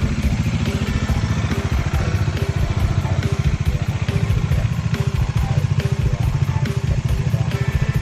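Bajaj Dominar 400's single-cylinder engine running steadily after a service, with a rapid, even firing beat.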